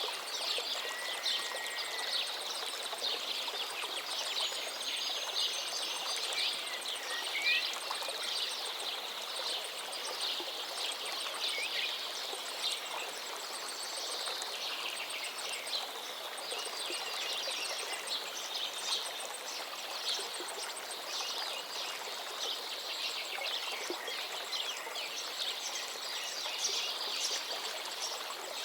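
Forest river flowing steadily, with several songbirds singing and calling over it in short chirps and whistles.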